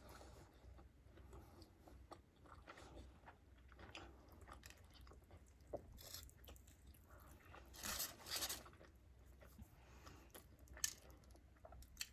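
A person chewing food with their mouth close to the microphone, with soft wet clicks and crunches. There is a louder crunchy stretch about eight seconds in and a sharp click near the end.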